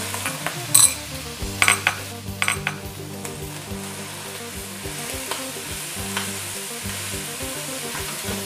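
Fried rice being stir-fried in a nonstick wok: a steady sizzle, with a few sharp clacks of the spatula against the pan, mostly in the first three seconds, as the mound of rice is broken up and mixed into the pork and egg.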